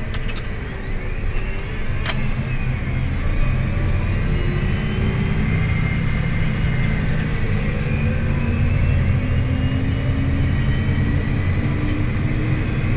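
Farm machine's diesel engine running steadily as it drives, with one sharp click about two seconds in and a faint tone that slowly rises in pitch over the second half.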